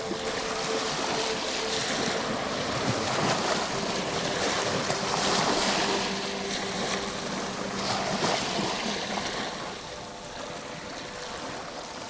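Ocean surf washing on a shore, swelling in the middle and easing off near the end, over soft, sustained tones of relaxation music.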